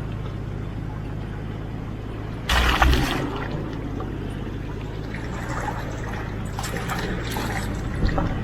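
A 4WD's engine running steadily at low revs as it crawls through creek water, with a loud rush of splashing water about two and a half seconds in and more sloshing near the end.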